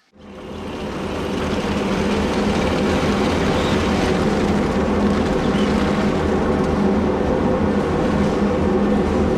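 Electric power tool motor starting up and rising to full speed over about a second and a half, then running steadily; the sound cuts off suddenly at the end.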